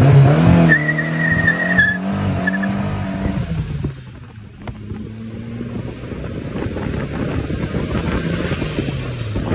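Turbocharged VW AP engine of a Gol pulling hard on a launch, with a short tire squeal about a second in. The engine note drops off around four seconds in, then builds again as the car keeps accelerating.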